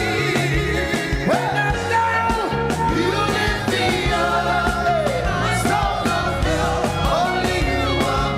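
Live church praise music: a band playing with a steady bass and drum beat, with singing over it.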